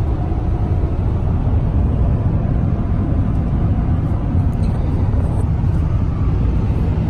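Steady low rumble of a vehicle driving on the road, engine and road noise.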